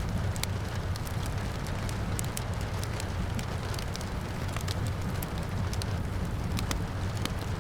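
Wood fire crackling, with frequent irregular sharp pops and snaps over a steady low rumble, and rain falling in the background.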